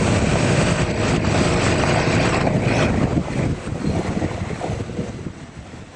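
Wind rushing over the microphone and the road noise of a Honda Africa Twin DCT motorcycle under way, a steady low noise that eases off over the last couple of seconds.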